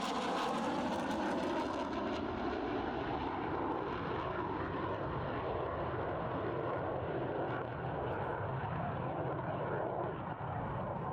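The jet engines of a Greek F-4E Phantom II, its two J79 turbojets, running loud as the fighter flies past. A whine drops in pitch right at the start, then a steady, even jet noise carries on as it draws away.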